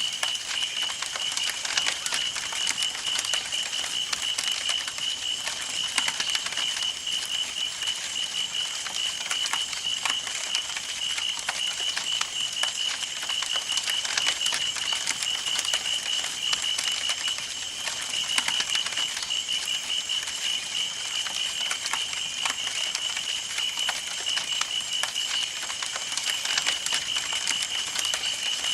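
Campfire burning, with frequent irregular sharp crackles and pops of burning wood. Under them runs a continuous, fast-pulsing, high-pitched chirring.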